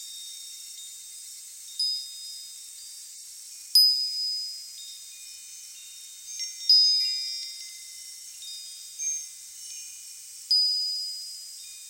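Wind chimes tinkling at irregular moments, several high, clear notes each struck sharply and ringing out as it fades, over a steady faint hiss.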